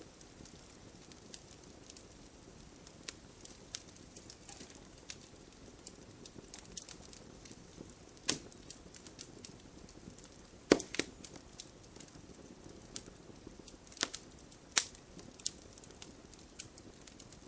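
Wood fire crackling: irregular sharp pops and snaps over a soft, steady low hiss, with a few louder pops a little past the middle and near the end.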